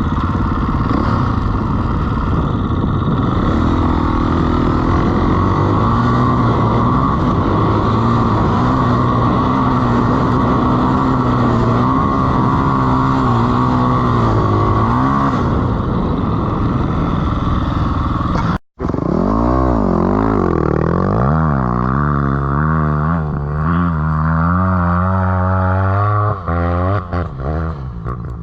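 Dirt bike engine revving as the bike is ridden through sand dunes, its pitch climbing and falling again and again as the throttle is worked. The sound cuts out for an instant about two-thirds of the way through, and the swings in revs come quicker after it.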